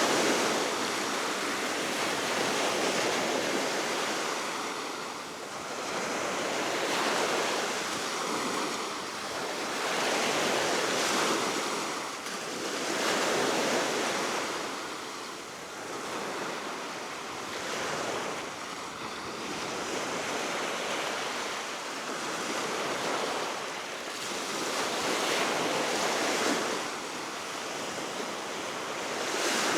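Baltic Sea waves breaking and washing ashore in repeated swells a few seconds apart, with steady wind.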